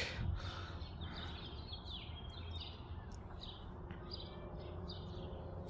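A bird chirping repeatedly in short, quick notes that dip in pitch, over a steady low outdoor background.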